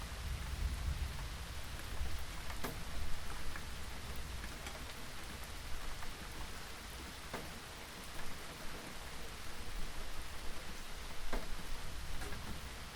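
Steady rainfall, a continuous hiss with the sharper taps of individual drops landing close by now and then. A low rumble of distant thunder dies away in the first couple of seconds.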